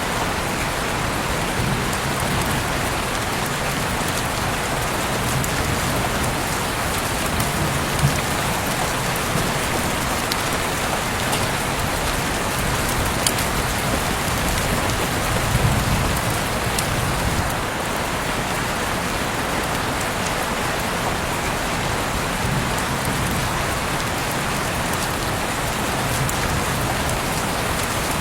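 Heavy rain falling steadily, a dense hiss of drops with a few sharper drips and brief swells of low rumble.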